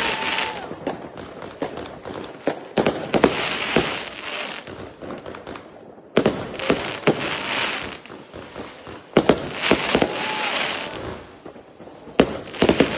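Fireworks going off: sharp bangs followed by bursts of crackling, in waves about every three seconds, with a short whistle near the end.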